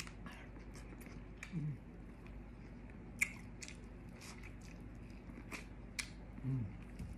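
Biting and chewing corn on the cob close to the microphone: scattered small clicks and crunches as kernels are bitten off. Two brief hummed 'mm' sounds, about a second and a half in and near the end.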